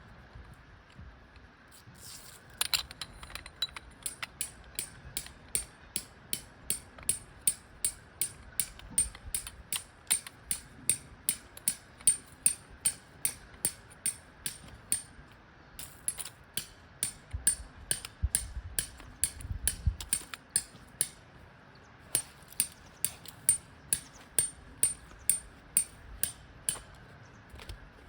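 A peg hammer striking metal in steady runs of about three blows a second, each blow with a short bright clink. There are three runs with brief pauses between them.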